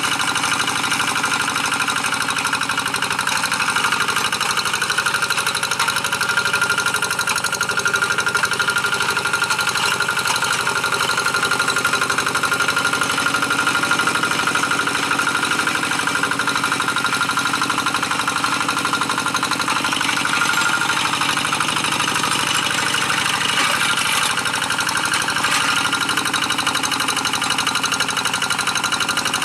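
Two-wheel hand tractor's single-cylinder diesel engine running steadily with a fast, even knock, pulling a moldboard plough through dry paddy soil.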